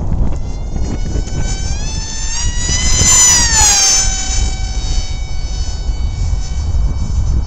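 Ritewing Lightning 36 RC flying wing making a fly-by: the high whine of its motor and propeller rises in pitch and grows louder, peaks about three seconds in, then drops in pitch as it passes. Wind rumbles on the microphone throughout.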